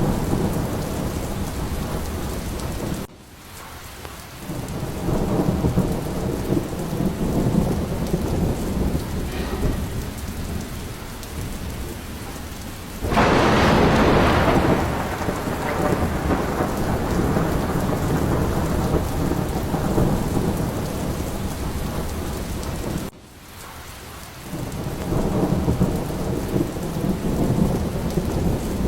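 Steady heavy rain with low rolling thunder. About halfway through, a sudden louder thunder crack rings out and fades over a few seconds. Twice the sound briefly drops away and then swells back.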